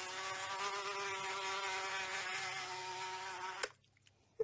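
Buzzing fly sound from a cat game app, played through a smartphone's speaker: a steady, even-pitched buzz that cuts off suddenly about three and a half seconds in. A short click follows near the end.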